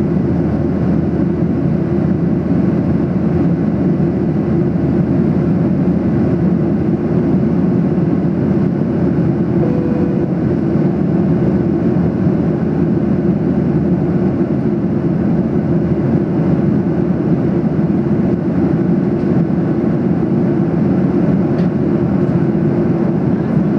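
Steady, loud cabin noise of a Boeing 737-800 in flight: the engines and the airflow past the fuselage make an even low rush with no change in pitch.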